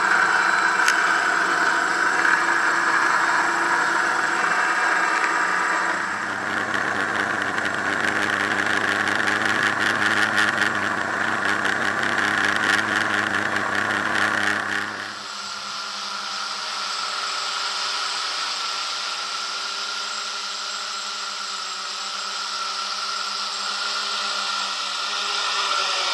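Six-motor Y6 multirotor's electric motors and propellers buzzing steadily in flight, with wind noise over the microphone. About halfway through the pitch and mix of the buzz change and the low end drops away.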